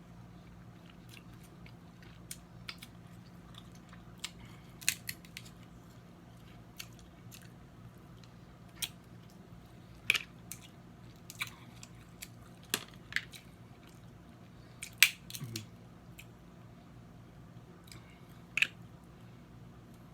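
Eating snow crab legs close to the microphone: chewing with scattered sharp cracks and clicks of shell and mouth, a dozen or so, the loudest about halfway and three-quarters through. A low steady hum runs underneath.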